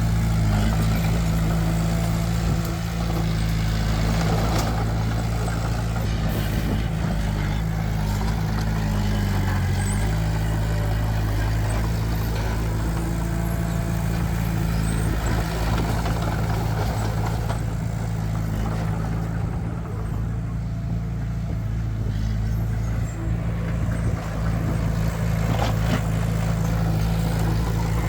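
Heavy diesel engine of earthmoving machinery running steadily with a low, even drone; its pitch shifts briefly about nine seconds in.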